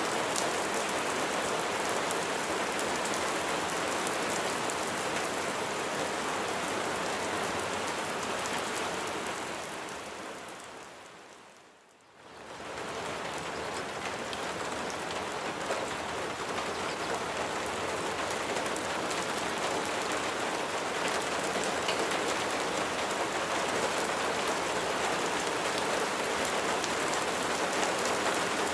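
Steady rain falling and pattering on a surface, a dense even hiss. About ten seconds in it fades away almost to silence, then swells back within a second or two and carries on as before.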